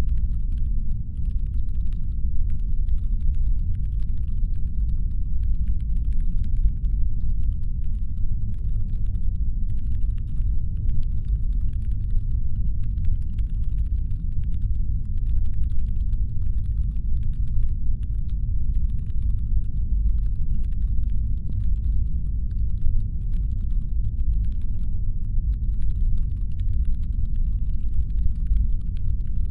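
Steady deep brown-noise rumble, designed as a spaceship engine hum, with faint, rapid, irregular light clicks over it throughout.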